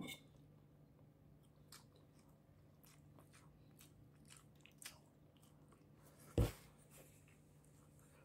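Close-up mouth sounds of a person chewing shrimp mawash: soft chewing with small wet clicks and smacks. About six seconds in comes one much louder thump or crunch.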